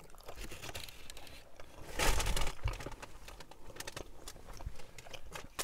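Chewing a mouthful of burrito, with many small wet mouth clicks and a louder burst of rustling about two seconds in.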